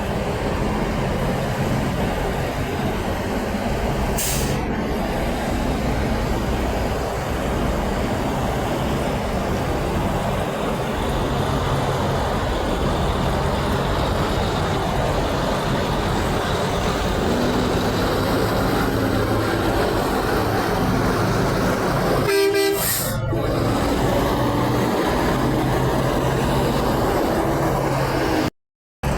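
Semi-truck traffic rolling by with engines running, and a short hiss about four seconds in. About 22 seconds in, a truck's horn sounds once for about a second.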